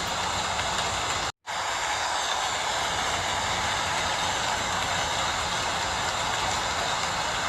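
Steady rain falling, an even hiss with no letup. It cuts out completely for a split second about a second and a half in, then carries on unchanged.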